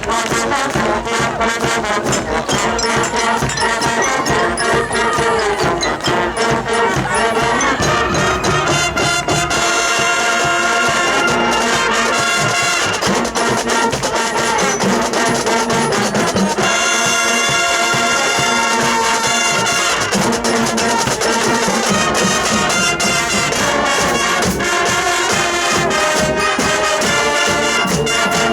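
Marching band playing, led by its brass section of trumpets and trombones, with regular percussion strokes.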